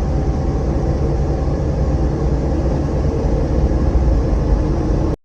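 Motorcycle riding at road speed: a steady engine hum under heavy wind rumble on the microphone. It cuts off suddenly at the very end.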